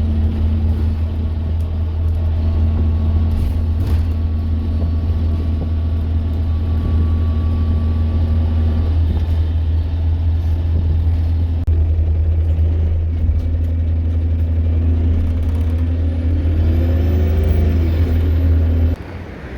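City bus engine running with a loud, steady low drone heard from inside the cabin, its pitch wavering briefly near the end before the sound cuts off suddenly.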